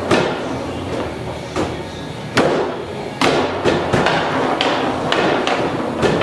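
Foosball game in play: the ball being struck by the players on the rods and knocking against the table walls, a quick irregular run of sharp knocks.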